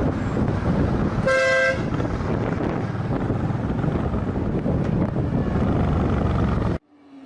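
Steady rush of wind and road noise from a moving vehicle, with one short vehicle-horn toot of about half a second, about a second in. The sound cuts off suddenly near the end.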